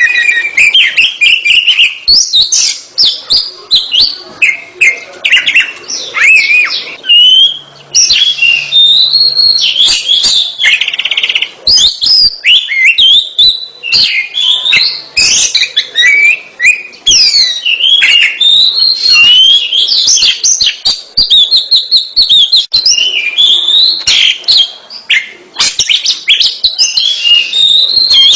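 Oriental magpie-robin (kacer) in full nonstop song: a loud, rapid, varied run of whistles, slurred glides and sharp clicks without pause.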